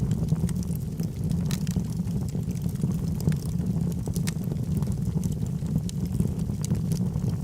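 Log fire burning in a fireplace: a steady low rumble of flames with frequent sharp, irregular crackles and pops.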